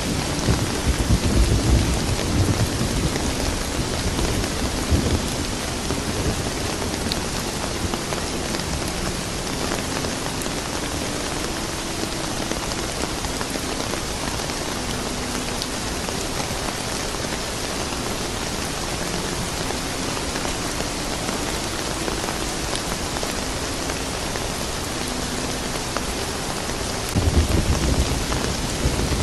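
Steady rain falling, a dense even hiss, with low rolls of thunder rumbling at the start and again near the end.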